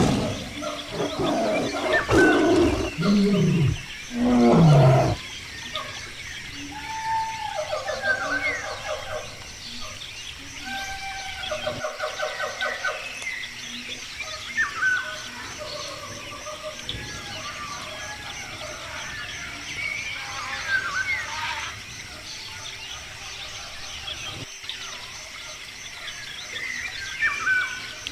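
A few loud animal calls with falling pitch in the first five seconds, then wild birds calling with repeated chirps and quick trills over a steady background hiss.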